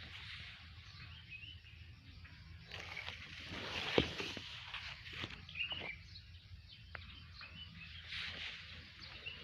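Outdoor ambience with a steady low rumble and hiss, a few short high bird chirps, and one sharp click about four seconds in.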